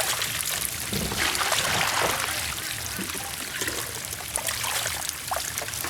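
Water trickling and splashing steadily, with small irregular splashes.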